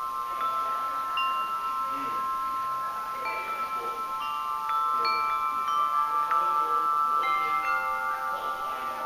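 Chimes ringing: a cluster of tones held steadily, with scattered higher notes struck one after another.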